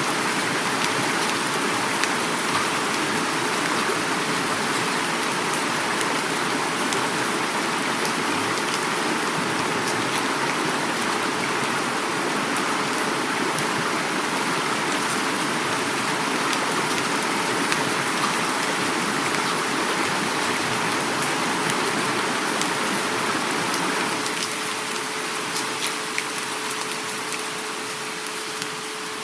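Heavy rain falling steadily with a river flowing, a dense hiss dotted with sharp individual drop ticks; it eases slightly about three-quarters of the way through.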